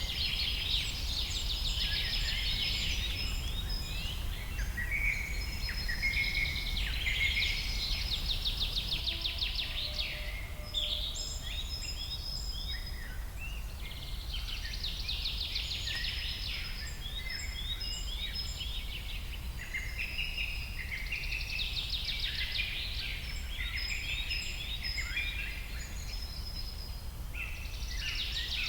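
A dense chorus of many birds chirping and trilling at once, in overlapping waves, over a steady low rumble.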